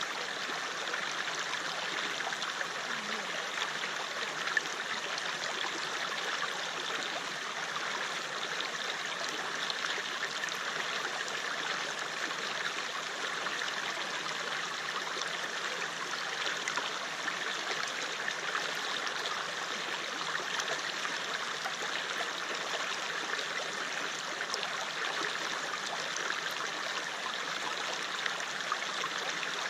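River flowing, a steady, even rush of water, with one brief click about four and a half seconds in.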